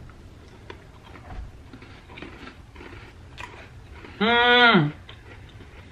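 Mini chocolate chip cookies being chewed: faint, scattered crunching clicks. About four seconds in, a loud hummed "mmm" of enjoyment that drops in pitch as it ends.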